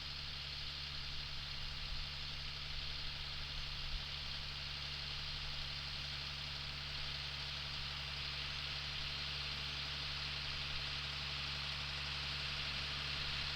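Engine running steadily at an even speed, a low constant hum with a hiss above it.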